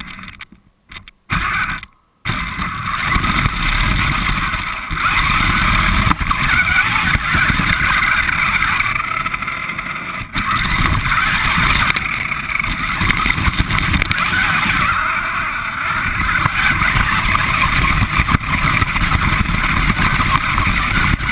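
Radio-controlled car driving, its motor and tyres rumbling and rattling over the ground, heard from a camera mounted on the car. The sound cuts out twice in the first couple of seconds, then runs on steadily.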